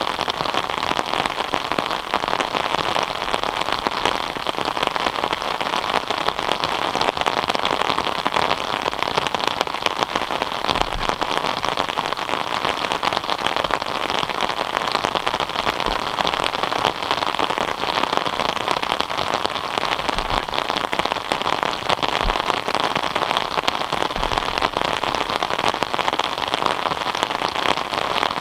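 Steady rain falling, a dense patter of many drops on surfaces.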